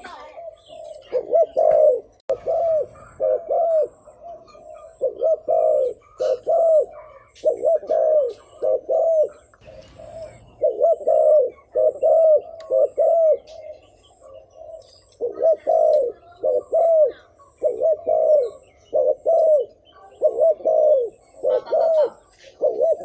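Spotted dove giving its rapid bow-coo ("thúc gù"): short, arched coos in quick runs of two or three, repeated over and over. This is the call used as a decoy to draw in wild doves.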